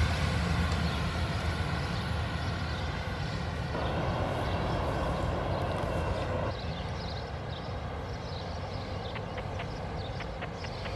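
Rumble of a freight train's auto rack cars rolling on the rails as the train moves away, dying down steadily. A rushing noise in the middle stops suddenly about six and a half seconds in, and a few faint clicks come near the end.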